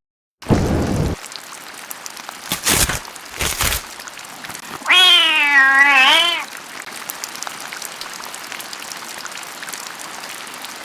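Steady rain hiss with a single long kitten meow, rising then falling, about five seconds in. A few short noisy bursts come before it.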